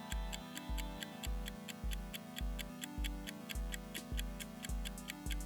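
Countdown-timer background music: a steady clock-like ticking over a low bass pulse, about two beats a second.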